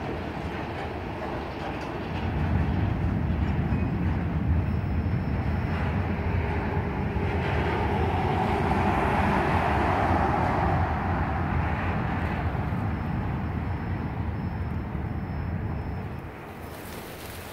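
Freight train of loaded flatcars rolling past on the rails: a steady rumble that swells through the middle and drops off near the end as the last car goes by.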